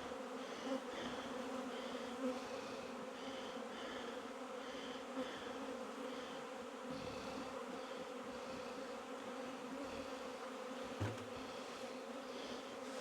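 Honey bees from an opened hive buzzing in a steady hum, with a few light knocks.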